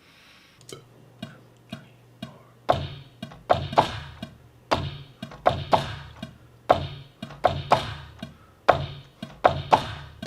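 A simple drum beat. It starts with light taps, then from about three seconds in comes a steady pattern of louder hits, about two a second, with a low thud under some of them.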